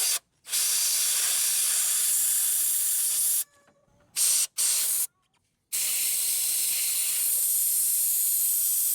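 Pressurised spray nozzle hissing in bursts that start and stop sharply. It sprays for about three seconds, then briefly about four seconds in, then again from about six seconds on.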